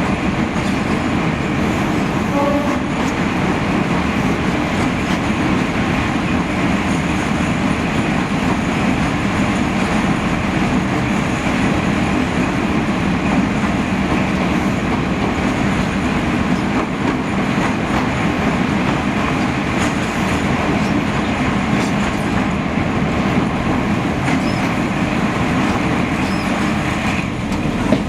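Steady rumble and running noise of a passenger train in motion, heard from inside a coach.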